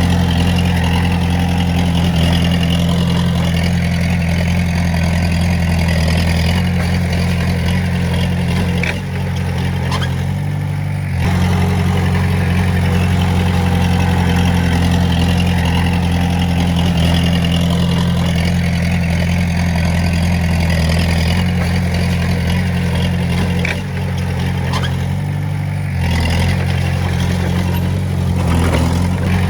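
Komatsu D20A bulldozer's diesel engine running steadily under load, with a few light metallic clanks. The engine note eases off briefly twice and then picks up again.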